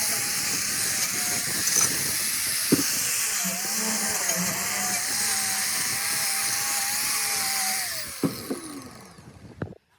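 High-speed power tool running steadily with a wavering whine that shifts with load, then switched off and spinning down about eight seconds in, followed by a few light clicks.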